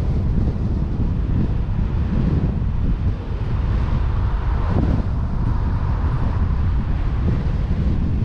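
Wind buffeting the microphone of a vehicle-mounted action camera while driving, a steady loud rumble, with the vehicle's road and engine noise underneath.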